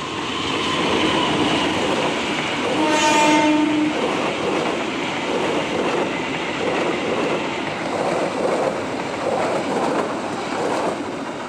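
CC 201 diesel-electric locomotive, a GE U18C, hauling a passenger train close past, with a steady rumble from the engine and wheels. One horn blast of about a second comes some three seconds in, the loudest sound here. The coaches then roll by with a repeated clatter of wheels over the rail joints.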